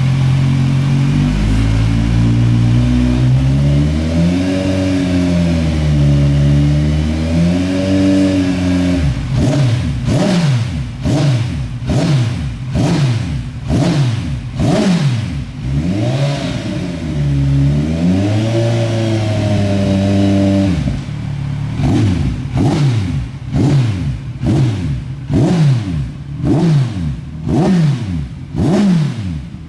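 Modified Kawasaki Z1000 inline-four engine held at a wavering steady speed for about nine seconds, then revved in quick throttle blips, about one a second, each pitch rising and falling sharply. The blips pause for a steadier stretch in the middle, then pick up again near the end.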